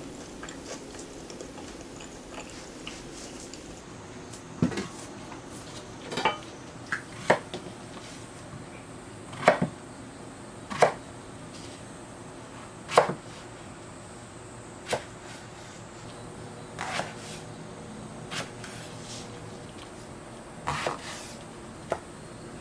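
Scattered kitchen clatters: about a dozen separate sharp knocks of utensils and dishes, a second or two apart, with quiet room tone between them.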